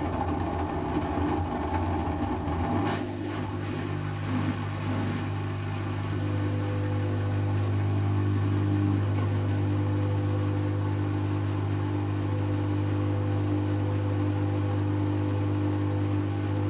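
Servis Automatic M3008B washing machine on its intermediate 800 rpm spin. The motor and drum run unevenly for the first few seconds, then settle into a steady spinning hum with a constant tone.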